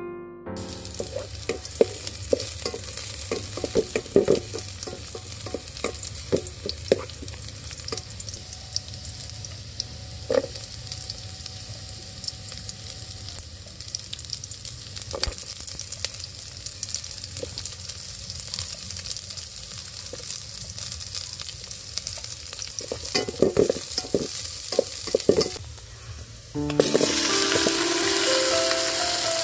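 Sliced garlic and onion sizzling as they sauté in a metal pot, with a utensil scraping and clicking against the pot as they are stirred. Near the end the sizzle jumps louder as pieces of stingray go into the pot.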